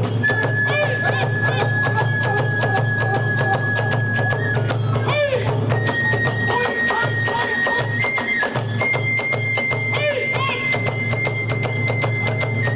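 Kagura hayashi accompaniment: a bamboo flute holds long high notes, shifting pitch a few times, over fast, continuous beating of drum and small hand cymbals.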